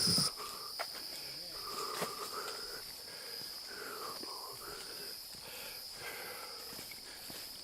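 Rainforest insects keeping up a steady, high-pitched chorus, which drops in level a moment in. Fainter calls slide down and back up a couple of times underneath.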